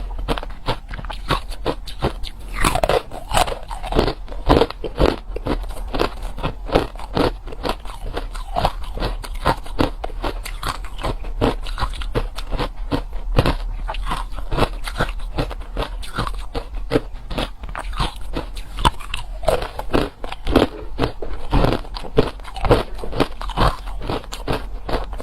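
Close-up crunching and chewing of crushed hard ice: rapid, dense cracks as the ice is bitten and ground between the teeth, going on without a break.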